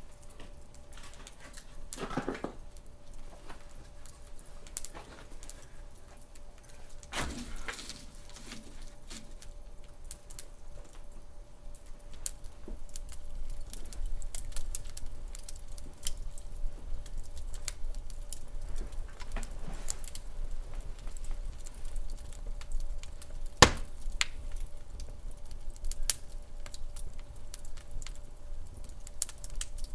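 Wood fire burning in a fireplace, with irregular crackling and small pops over a low rumble, and one sharp pop about two-thirds through.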